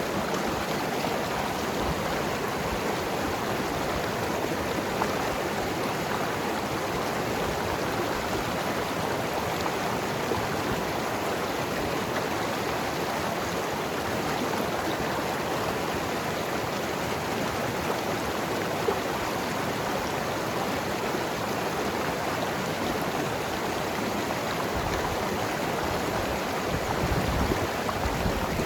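Mountain river flowing and tumbling over rocks: a steady, even rush of water with a low rumble swelling slightly near the end.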